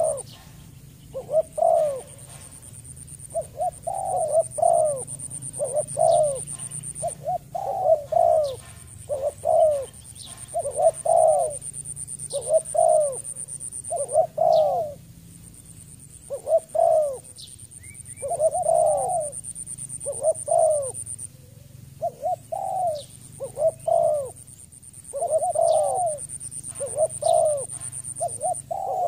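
Spotted dove cooing: short, arching coo notes repeated about once a second, with brief gaps.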